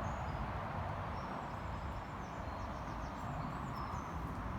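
Steady outdoor background noise, with faint high chirps of small birds.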